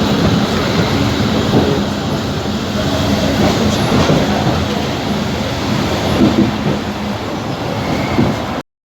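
Abu Qir line passenger train running on the rails: a dense, steady rumble with a low hum under it. It cuts off abruptly near the end.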